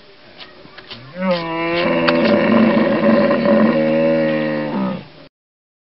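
Hippopotamus calling: one long, deep, lowing call that rises in pitch at the start, holds steady for about four seconds, then stops abruptly.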